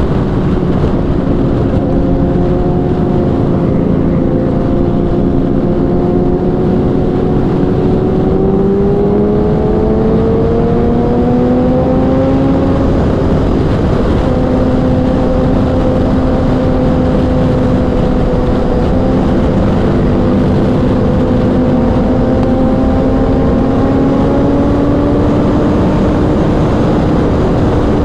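Kawasaki inline-four sport bike engine pulling at highway speed, heard from on board with heavy wind rush. The engine note climbs gradually as the bike gently accelerates, holds steady, then rises slightly again near the end.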